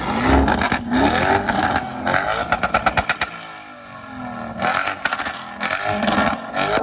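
Lamborghini Urus twin-turbo V8 being revved hard in two bouts, each rev rising in pitch, with rapid exhaust pops and crackles between them, the densest about two to three seconds in.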